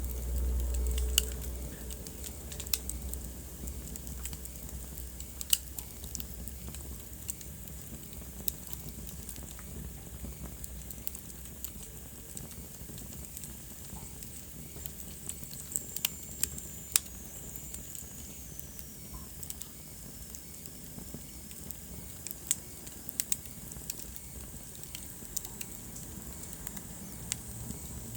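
Wood fire crackling in a fireplace: scattered sharp pops and snaps over a steady soft hiss, with a low rumble in the first couple of seconds. Midway there is a faint high whistle that slides down in pitch.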